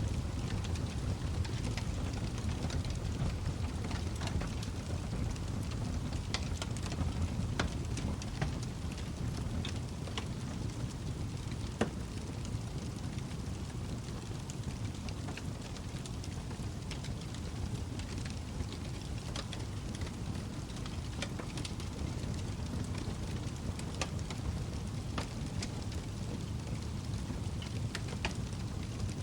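Wood log fire in a fireplace burning, with a steady low rumble under frequent crackles and pops; one sharper pop about twelve seconds in.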